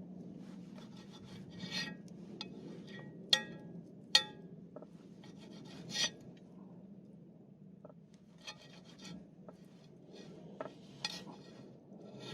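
Wood campfire burning: irregular crackling with scattered sharp pops, the two loudest a little over three and four seconds in, over a steady low hum.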